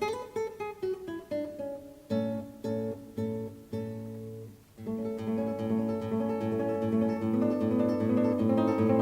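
Background music on acoustic guitar: single plucked notes at first, then from about halfway a busier, steadier passage of picked chords.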